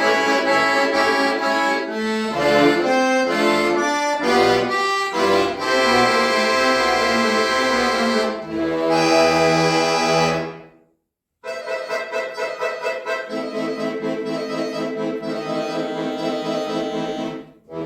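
Accordion music played by a duet: full sustained chords that break off about 11 s in, then resume as fast repeated chords and stop near the end.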